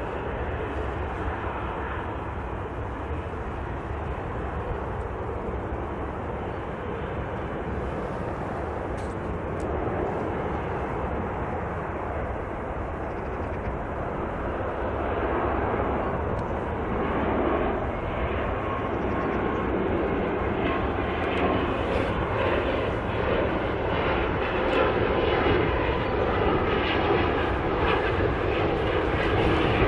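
Turboprop airliner engines running, the sound growing steadily louder over the stretch.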